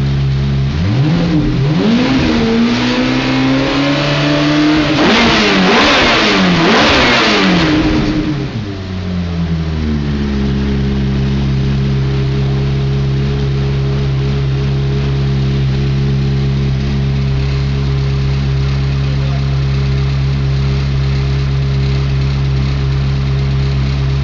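Ferrari F430's V8 engine through a Capristo aftermarket exhaust: idling, then revved up about a second in, given several quick throttle blips, and falling back to a steady idle around ten seconds in.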